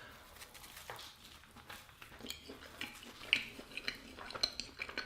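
A man chewing a mouthful of Adjaruli khachapuri, a cheese-filled Georgian bread: faint, irregular mouth clicks and crackles.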